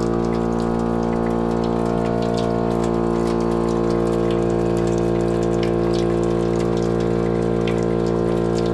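Household water pipes humming with a loud, steady pitched drone as water runs through the tap, the plumbing sounding a single held note over the rush of water.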